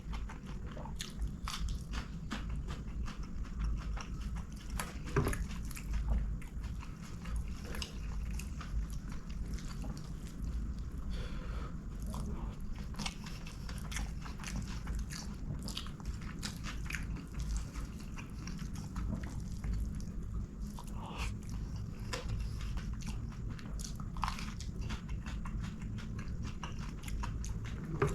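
Close-miked mouth sounds of a person eating string hoppers and curry: wet chewing, biting and small crunches, with many short clicks.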